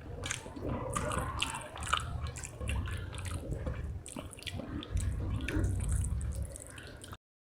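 Close-miked wet chewing of rice and spicy fish curry: dense lip smacks and mouth clicks over low thumps. The sound cuts off to dead silence near the end.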